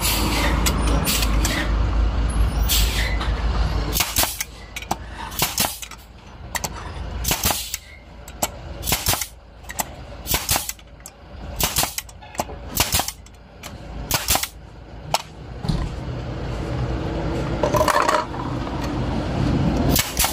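ST64 pneumatic steel nail gun firing nails one after another, about a dozen sharp shots roughly a second apart, on a test after its broken top-cap rubber gasket was replaced: the driver is cycling and returning with full power. An air compressor runs with a steady low hum before the shots and again near the end.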